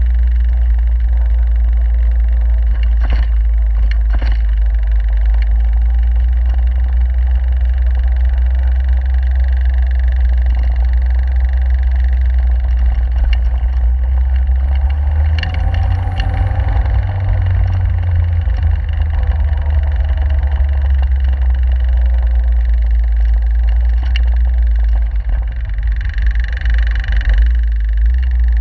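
Caterham 7 sports car driving along with its engine running steadily, under a heavy low rumble of wind on the open car.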